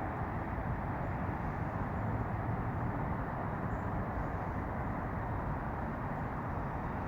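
Amtrak passenger train rolling along the track at low speed, a steady even rumble with no horn sounding.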